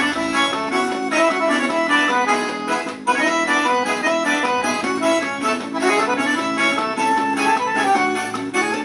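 Instrumental break of a forró song: accordion playing the melody over a steady percussion beat.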